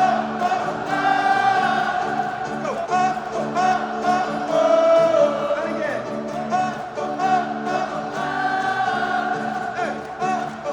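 Live band music with voices singing long, held wordless notes over a sustained chord.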